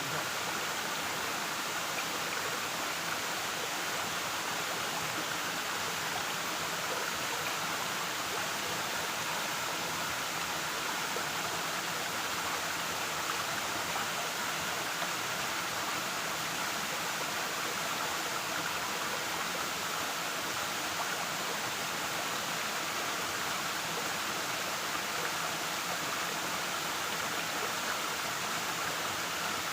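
Waterfall: falling water splashing and rushing in a steady, unbroken wash.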